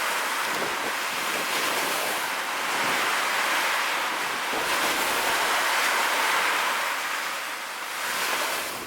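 Ocean surf washing on the shore as a steady hiss, swelling and easing twice.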